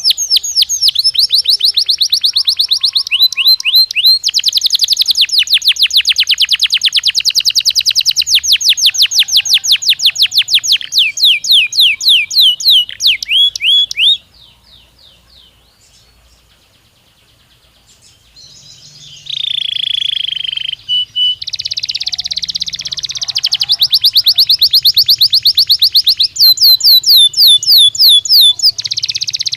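Belgian canary singing long, fast, high trills of rapidly repeated notes. The song breaks off for a few seconds about halfway through, resumes with a lower rolling phrase, and goes back into loud trills.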